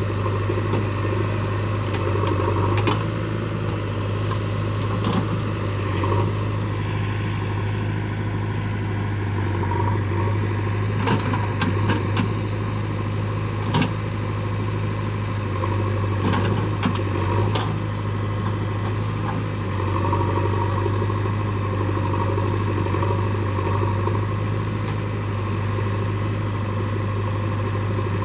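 Diesel engine of heavy machinery running steadily at low revs, with a few short knocks scattered through the middle.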